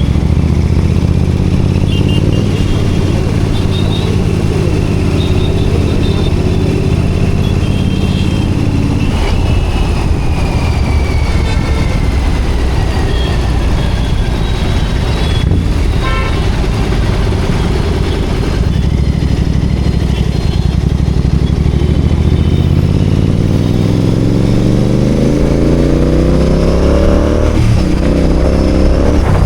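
Royal Enfield Continental GT 650's 648 cc parallel-twin engine running under way, then accelerating with the revs climbing steadily for several seconds and dropping sharply at a gear change near the end.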